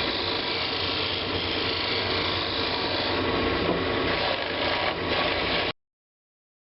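Woodworking lathe spinning a large wooden bowl blank while a turning tool cuts into the wood, a steady rushing hiss over a low rumble. It stops abruptly about a second before the end.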